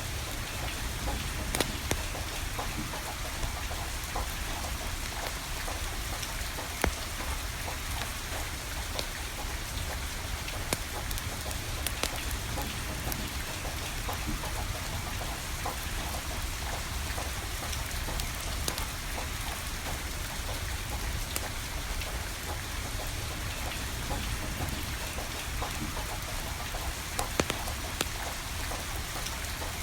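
Steady rain falling, mixed with a wood fire crackling; sharp pops stand out now and then, a few of them louder than the rest.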